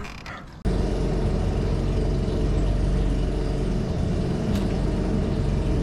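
Small boat's outboard motor running steadily at trolling speed, cutting in abruptly under a second in.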